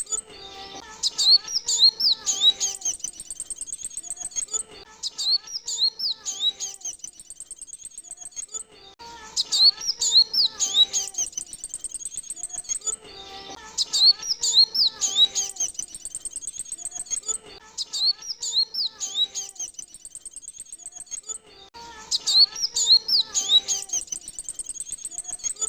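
Male kolibri wulung (sunbird) song: bouts of rapid, high, sharp twittering notes, each a couple of seconds long and repeated every few seconds in the same pattern, as a looped lure call used to draw in the birds.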